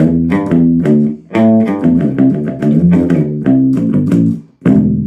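Short-scale Gretsch electric bass played through an Orange Super Crush 100 amp and 2x12 cabinet: a riff of plucked notes, several a second, breaking off briefly about four and a half seconds in before starting again.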